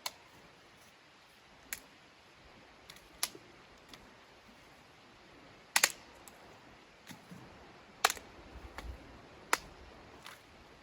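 Sharp clicks and snaps at irregular intervals, about eight in ten seconds, over a quiet background; the loudest come about six and eight seconds in.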